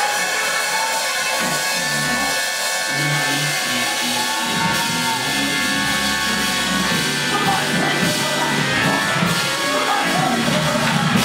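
Live church music with a drum kit and held instrument tones, a voice singing over it.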